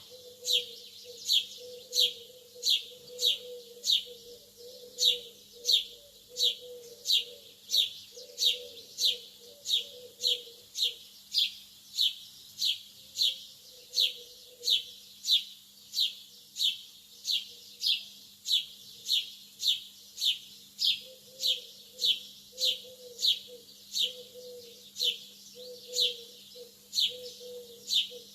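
Lovebird chirping over and over, short shrill chirps falling in pitch, about one and a half a second in a steady rhythm. A fainter low warbling sound comes and goes beneath, over a steady low hum.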